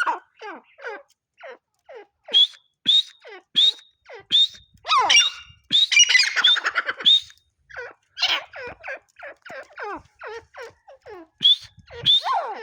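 Grey francolin calling: a long series of short, sharp notes repeated at a steady pace, about one every two-thirds of a second, crowding into a dense run of overlapping calls around the middle before the steady series resumes.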